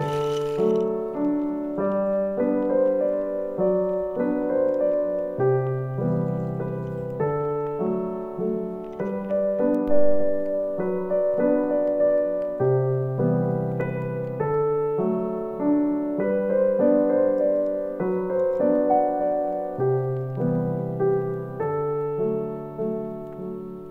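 Background piano music: gentle chords and a melody, the notes changing about once a second.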